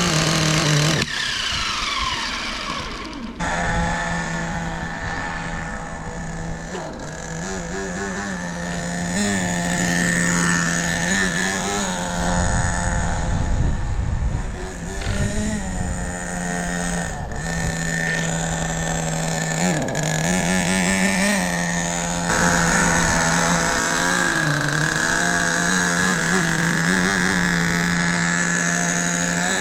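Hot Bodies .18 nitro engine of an RC car running at a steady high-pitched drone, its pitch rising and dipping slightly several times.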